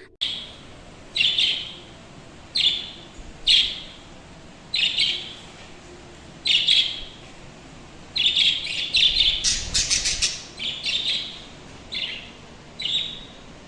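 Pet lovebirds chirping in their cage: short, shrill calls about once a second, getting busier about two thirds of the way through, with a few sharp clicks among them.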